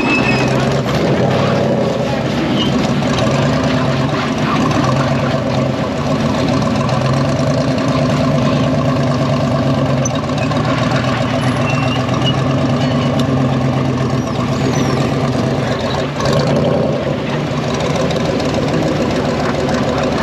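Off-road 4x4's engine running steadily, a continuous even drone with no change in pitch.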